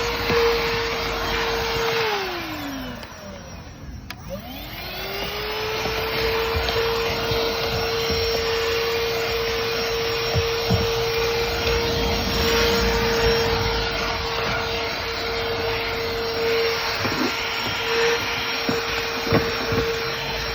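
Stihl SEA 20 cordless handheld vacuum running with a steady motor whine and rush of air. About two seconds in it winds down, as if switched off, then spins back up to full speed about four seconds in and runs steadily again.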